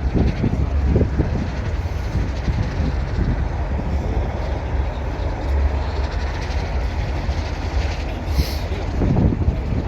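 Strong wind buffeting the microphone: a steady, loud, unpitched rumble, with a short hiss near the end.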